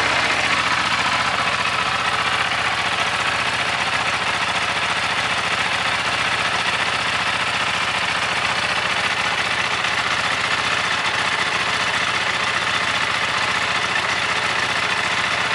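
Buell 1125R's liquid-cooled V-twin idling steadily through its stock muffler.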